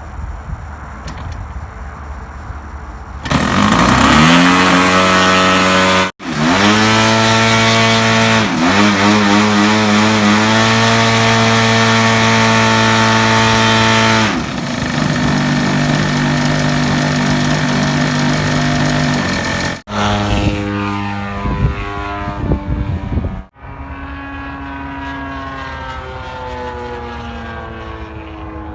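DLE-55cc single-cylinder two-stroke gasoline engine on an RC airplane coming in sharply about three seconds in, revving up several times and holding at high throttle, then dropping to a lower steady speed. Near the end it is quieter and farther off, its pitch sliding up and down.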